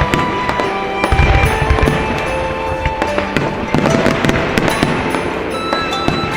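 Aerial fireworks bursting and crackling in quick succession, with a heavy low boom about a second in, over music.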